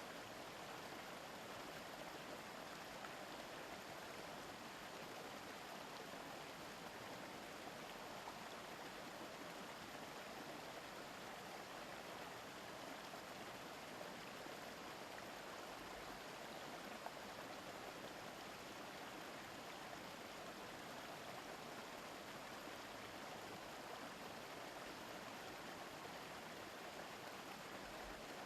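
A mountain stream babbling steadily over rocks, a constant rushing murmur of flowing water.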